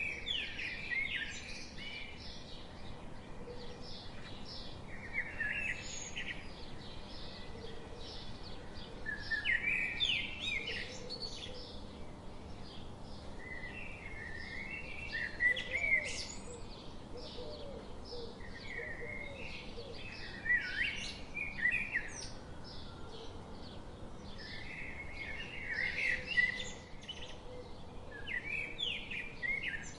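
Birdsong: a songbird repeats a short warbling phrase every four to five seconds over a steady background chorus of many high chirping birds.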